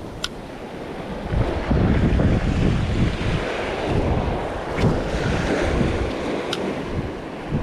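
Strong wind buffeting the microphone over breaking surf, swelling about a second and a half in, with a few faint clicks.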